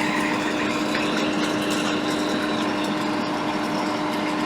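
Small electric blower fan on the repair bench running steadily, a constant rushing noise with a low steady hum.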